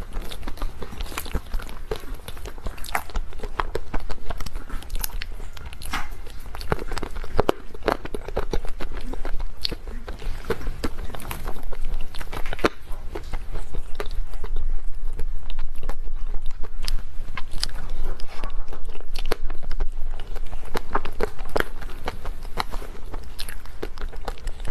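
A person eating mousse cake close to the microphone, with repeated biting and chewing heard as many sharp clicks. A low steady hum runs underneath.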